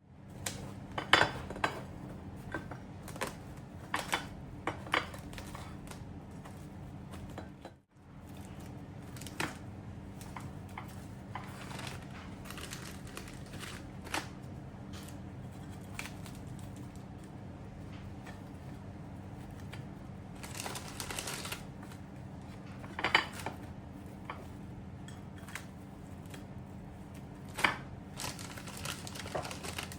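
Kitchen preparation sounds while making a no-bake Biscoff dessert: scattered light taps and clinks of utensils against dishes, with a short stretch of rustling and crinkling near the two-thirds mark, over a steady low hum.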